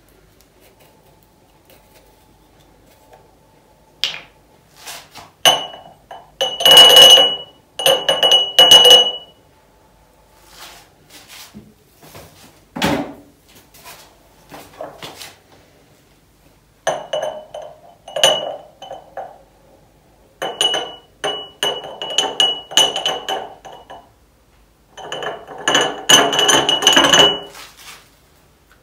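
Glass jars and kitchen containers clinking and rattling as they are handled and filled with dry pantry goods. The sound comes in runs of dense clatter a second or three long, with bright glassy rings, the loudest run about seven to nine seconds in.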